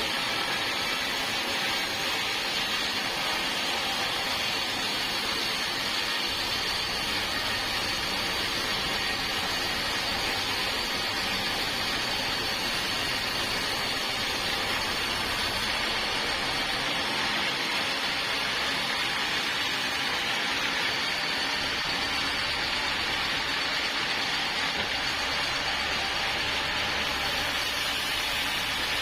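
Sawmill saw running steadily through wood, a constant loud machine noise dominated by a high hiss.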